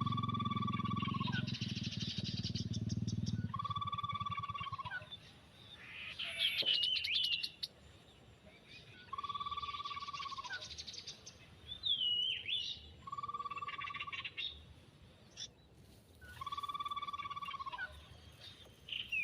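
Small birds calling: a short call with a level note repeats every three to four seconds, with higher twittering and a couple of sharp sweeping chirps in between. A low rumble runs under the first few seconds.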